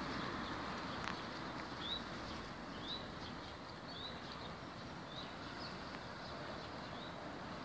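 A small bird calling a short, high, rising chirp over and over, about once a second, starting about two seconds in, over steady outdoor background noise.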